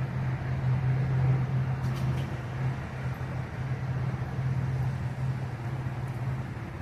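Large engine of heavy equipment running steadily, a low hum that eases off just before the end.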